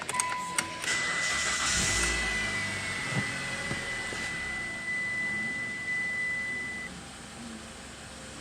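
Mitsubishi Lancer engine starting and then running, with a short beep followed by a steady high electronic tone that stops about seven seconds in.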